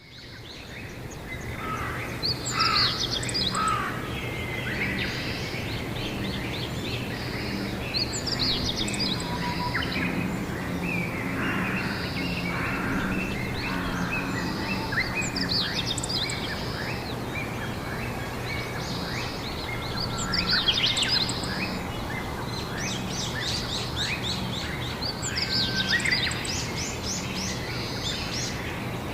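Wild birds singing, one loud trilled song phrase repeating every five or six seconds among quieter chirps, over a steady low background hum.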